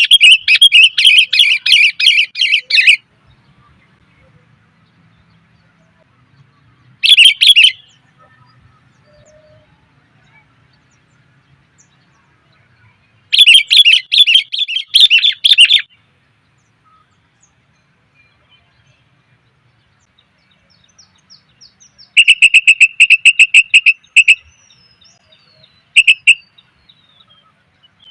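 Sooty-headed bulbul (kutilang) calling in bursts of rapid chattering notes, five bursts a few seconds apart, with faint thin whistles in between. This is a female's call, used as a lure to bring in males.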